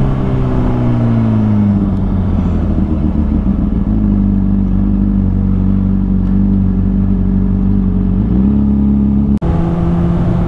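Sport motorcycle engine running on the road. Its pitch drops over the first couple of seconds as the bike slows, then holds a steady note while cruising and rises a little near the end. The sound cuts out for an instant shortly before the end.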